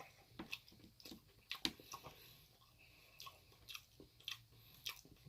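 Faint mouth sounds of a person chewing food: soft, irregular clicks and smacks.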